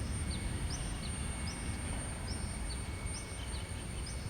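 Birds chirping: short, high, falling chirps repeating about twice a second over a steady low rumble.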